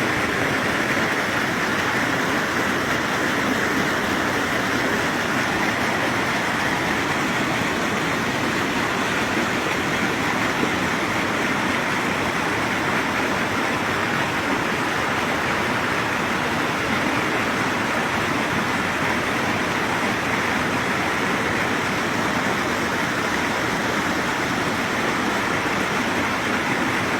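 Water from a mountain spring flowing with a steady, unbroken rush.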